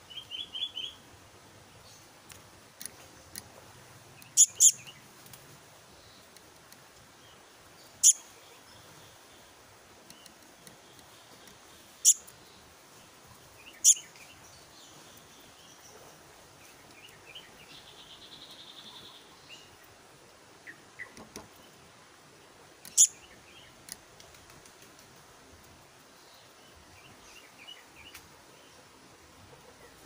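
A black-naped monarch fledgling calling in short bursts: a quick run of chirps at the start, a handful of sharp, high, loud notes spaced several seconds apart, and a short buzzy trill about two-thirds of the way through, with faint chirps between.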